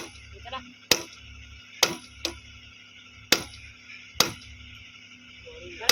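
A string of sharp metal-on-metal clanks, about one a second with uneven gaps, each ringing briefly, typical of metal parts being struck during railway point machine fitting work.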